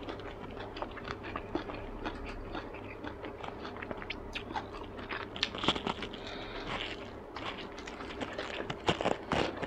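Close-miked chewing of a fresh Vietnamese spring roll (rice paper wrapped around shrimp, pork and greens): quiet, wet mouth clicks and soft chewing throughout, with two louder clicks near the end.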